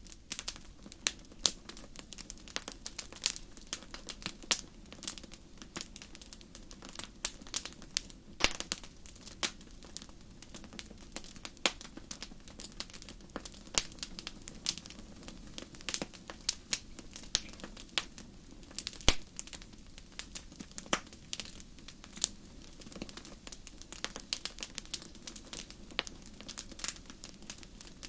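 Wood fire crackling in a fireplace: frequent irregular sharp pops and snaps over a soft, steady low rush of flame.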